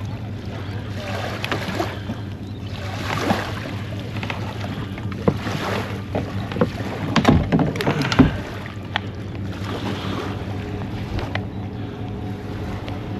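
Knocks and clatter of a plastic fishing kayak and its gear being handled, loudest in a burst of clunks about six to eight seconds in, over wind on the microphone and a steady low hum.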